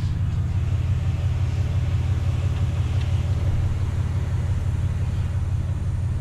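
Steady low rumble of a straight-piped dually pickup truck's engine and exhaust, heard from inside the cab.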